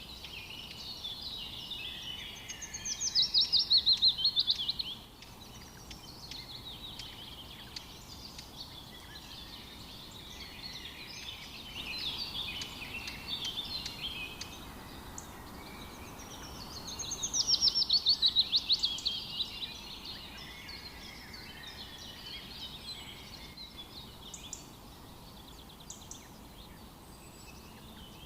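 Birds singing, with one bird twice giving a loud, rapid trill that falls in pitch, about three seconds in and again about seventeen seconds in, over quieter chirps and song from other birds.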